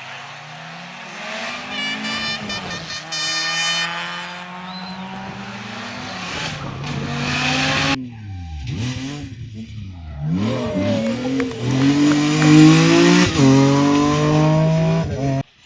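Rally car engines revving hard and accelerating, the pitch climbing and dropping with gear changes. An abrupt cut about halfway switches to another car doing the same.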